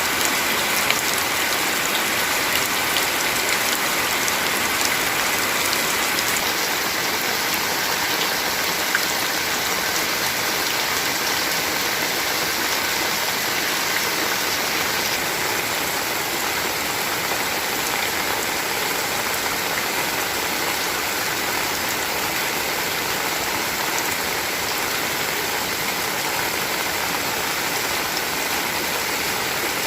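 Heavy rain falling steadily, a dense even hiss of rain on surfaces with scattered louder drop ticks.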